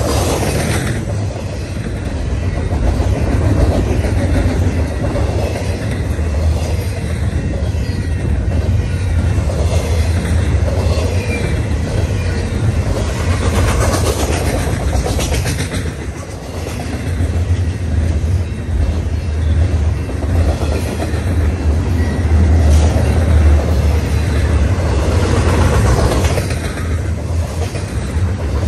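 Double-stack intermodal container train of well cars rolling past close by: a steady low rumble of steel wheels on the rails with clattering, clickety-clack over the track.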